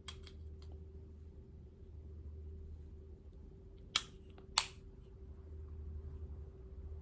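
Small plastic clicks from handling the earbuds and their charging case: a few faint ones, then two sharp clicks about half a second apart near the middle, over a low steady hum.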